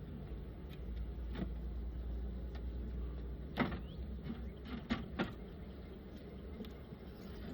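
Honeybees buzzing steadily around an open hive, agitated after two colonies have been merged into one. Several sharp knocks of wooden hive parts being handled come about a second and a half in and three times between about three and a half and five seconds in.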